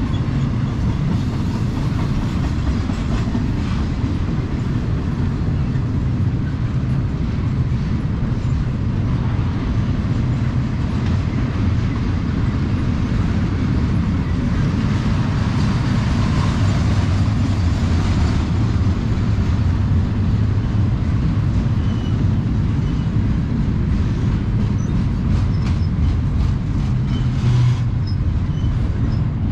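Double-stack intermodal freight cars rolling past, a steady low rumble of steel wheels on rail that swells slightly about halfway through.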